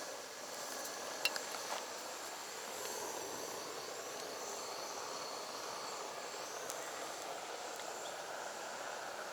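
Mountain river rushing steadily, with a few faint clicks.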